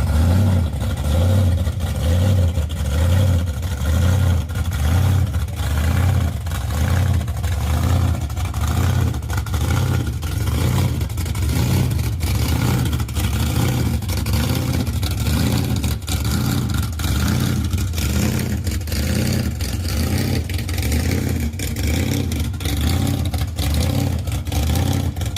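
Car engines with loud exhausts running, a deep low rumble that swells and dips about once a second.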